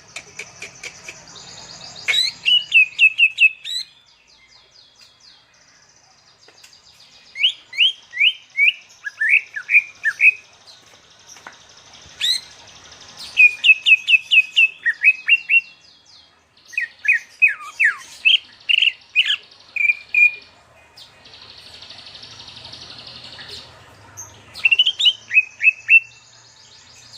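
Caged songbird singing: phrases of four to six quick, sharply down-slurred whistles, repeated every few seconds with short pauses between, over fainter high twittering.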